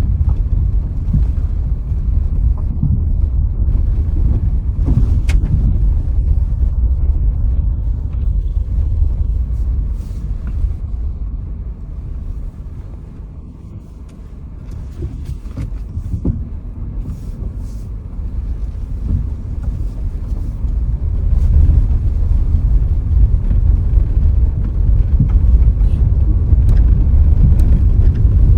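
Vehicle driving along a road: a steady low rumble of road and wind noise that eases off about halfway through and builds up again to its loudest near the end.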